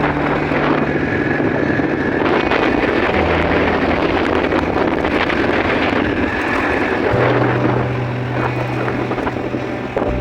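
Steady roar of rushing water from a waterfall, with low held notes of background music changing every few seconds beneath it.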